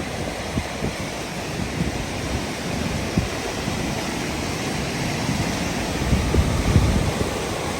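Steady rush of a waterfall's falling water, with wind buffeting the microphone in low rumbling gusts that grow stronger near the end.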